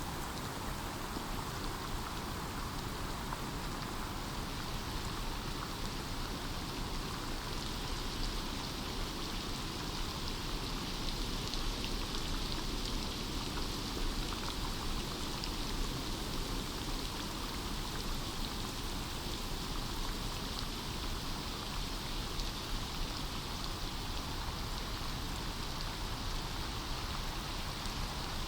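Steady rain falling on forest foliage, a dense even patter of raindrops.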